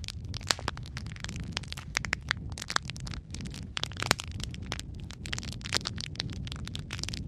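Wood fire in a fireplace crackling: many sharp pops and snaps at irregular intervals over a steady low rumble of burning.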